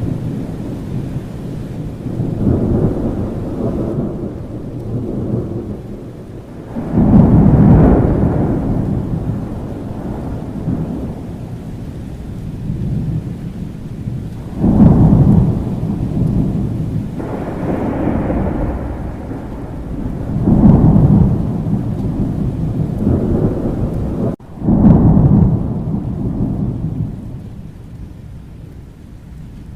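Thunderstorm: steady rain with repeated rolls of thunder, several sudden deep rumbles that swell and then die away over a few seconds.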